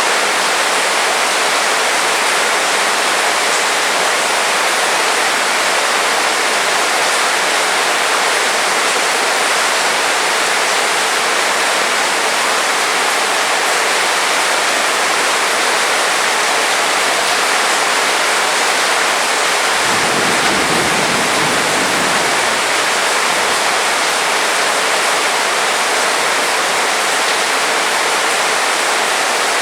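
Heavy rain falling in a steady, even hiss, with a brief low rumble about two-thirds of the way through.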